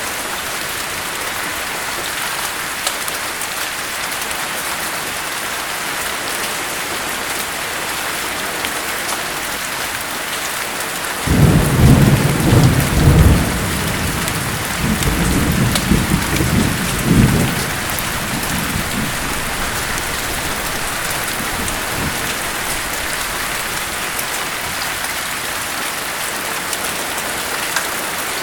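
Steady heavy rain falling, with a clap of thunder about eleven seconds in that rumbles low in two rolls and fades out some seven seconds later.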